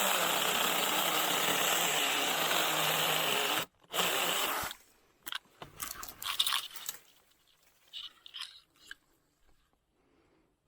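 Cheap 6-inch cordless mini chainsaw running steadily through a small Chinese tallow tree for about four seconds, stopping briefly, then a short final burst. Then a few seconds of crackling and snapping of brush as the cut stem comes down, fading to light rustling.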